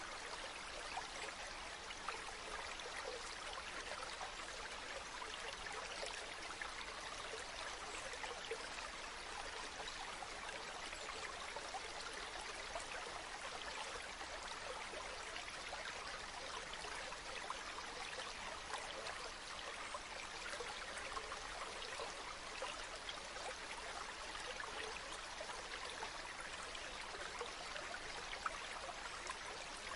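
Running water, a stream or small falls, with a steady rush and fine splashing that does not let up.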